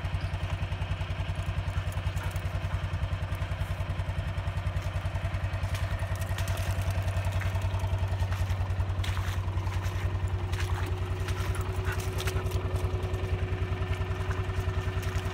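Utility vehicle engine running steadily with an even low throb, with scattered light clatter in the middle.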